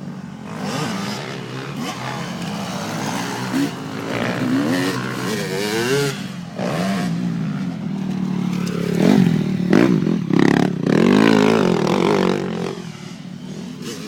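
Motocross bike engines revving, pitch rising and falling repeatedly with throttle and gear changes; loudest about nine to twelve seconds in, then dropping away.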